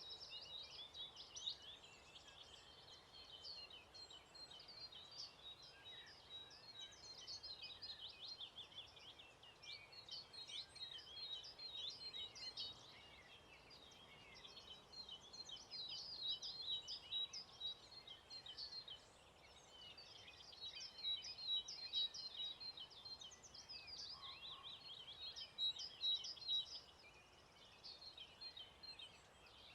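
Faint dawn chorus of many songbirds, dense overlapping chirps and trills with a high note repeated again and again, swelling and easing.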